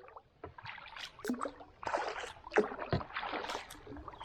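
Kayak paddle strokes splashing in river water, a series of uneven splashes starting about a second in.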